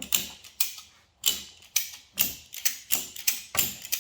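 Ratchet strap being cranked tight: a string of sharp pawl clicks, about two to three a second, coming closer together toward the end.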